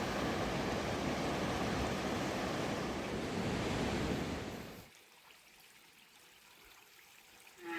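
Rushing river water, a steady loud noise that cuts off abruptly about five seconds in, leaving only quiet. Right at the end a steady pitched call begins.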